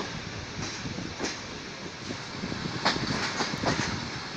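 Passenger train rolling slowly into a station, heard from a coach window: a steady running rumble broken by irregular wheel clacks over the rail joints, several in quick succession about three seconds in.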